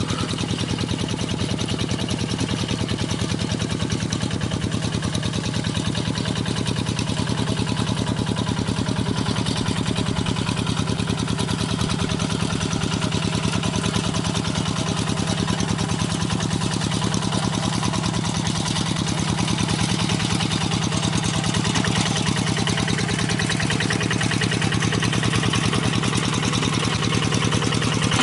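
Paddy-field tractor engine running steadily at idle, with a fast, even beat of firing pulses.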